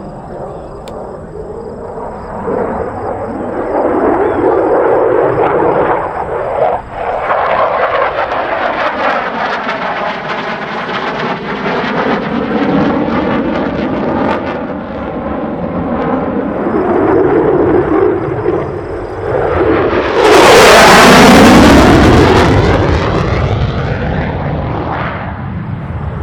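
F-16 fighter jet's engine noise rising and falling as it manoeuvres overhead, with a sweeping, phasing whoosh as it passes. It is loudest on a close, fast pass about three-quarters of the way through, then fades.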